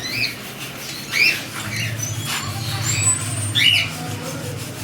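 Budgerigars calling, short chirps about once a second with a brief high whistle about three seconds in, over a steady low hum.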